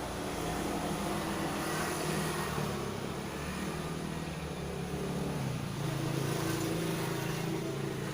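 An engine running, its pitch shifting and its level swelling twice.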